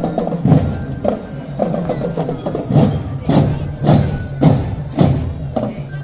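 Marching drum band playing: drums striking a steady beat, close to two strikes a second, over sustained melodic notes.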